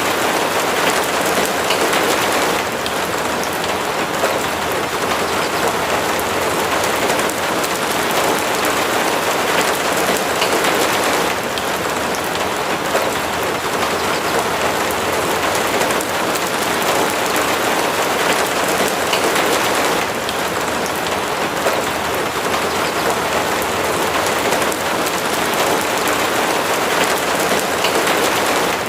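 Steady rain falling, an even, dense hiss with no pauses.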